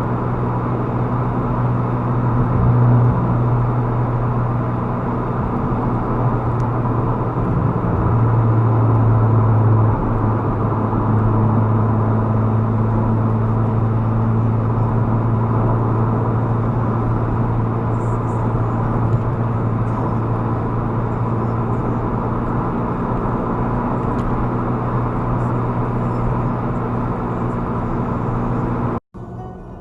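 A car engine and road noise from a moving car, a steady hum that swells slightly twice; it cuts off abruptly near the end.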